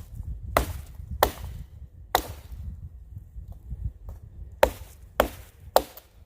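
A wooden baton striking the spine of a pocket knife, driving the blade into a dead standing tree's trunk and bark. There are six sharp knocks in two groups of three, the second group about four seconds in.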